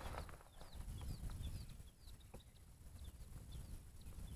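Small birds chirping, short high hooked notes repeating a few times a second, over a low rumble, with one faint knock about two seconds in.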